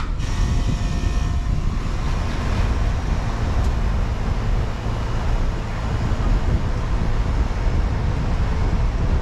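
2002 Bryant Coast Guard central air conditioner starting up. It kicks on suddenly about a quarter second in with a hum that fades over the first couple of seconds, then runs with a steady low rumble.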